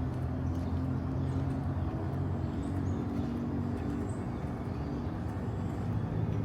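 Steady low rumble of city traffic, with a few short high bird chirps over it.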